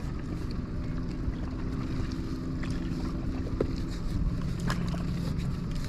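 Wind buffeting the microphone over a steady low hum, with a few faint clicks.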